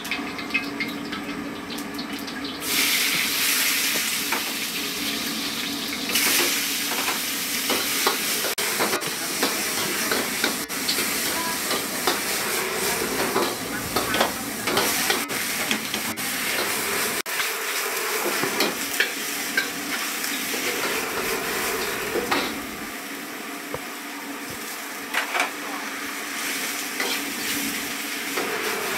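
Food frying with a steady sizzle that grows louder about three seconds in, with scattered clinks and scrapes of a utensil stirring.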